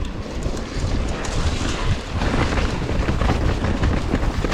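Wind buffeting the microphone of a mountain bike's camera during a ride down a wet, muddy trail, with a heavy low rumble and scattered knocks and rattles from the bike.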